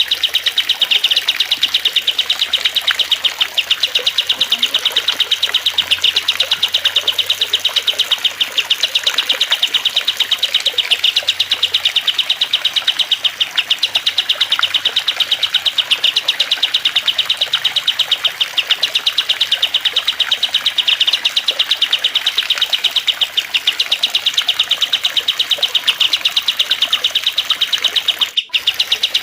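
Songbird tutoring mix of cililin, kastem and lovebird song over trickling water: a continuous, very fast, high-pitched chatter of chirps and trills, with a steady hiss of water beneath. There is a brief dropout near the end.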